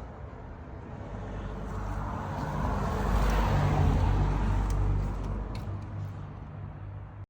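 A road vehicle passing by: its low rumble and tyre noise swell to a peak about three to five seconds in, then fade.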